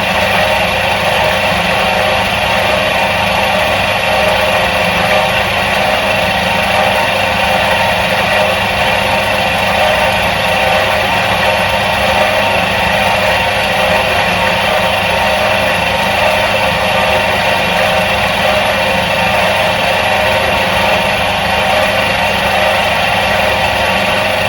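Electric motor of a 1977 Soviet washing machine running steadily: a constant hum and whir that holds the same pitch and level throughout.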